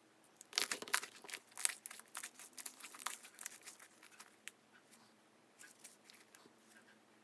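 Slime being squished and pulled by hand, giving a rapid run of sticky crackles and pops that thins out after about four seconds.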